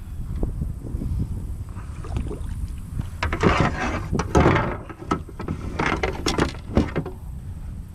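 Water splashing in several rushing bursts over a steady low wind rumble on the microphone.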